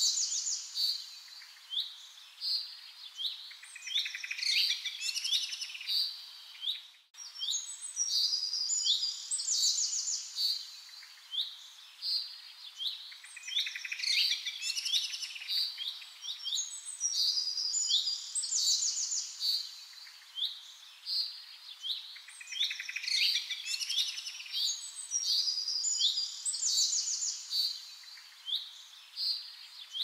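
Birds chirping continuously: quick high chirps and short calls grouped into busy phrases that recur every few seconds, with a brief sudden gap about seven seconds in.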